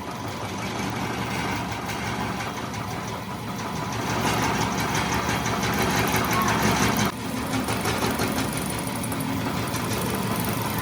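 An engine running with a steady, rapid pulse, growing louder about four seconds in, with a brief drop about seven seconds in.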